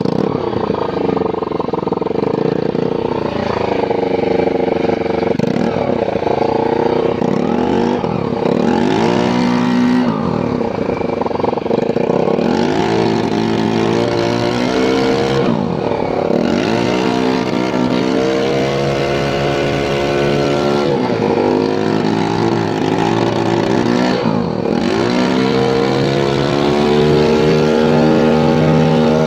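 Small motorboat engine running hard, its pitch dipping and climbing back several times and rising near the end. The engine has just been tuned up.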